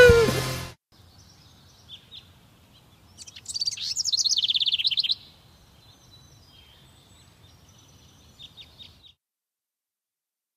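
Songbirds chirping over a faint outdoor ambience. About three seconds in, one bird gives a loud, rapid trill of quick repeated high notes lasting about two seconds. The tail of a piece of music cuts off in the first second.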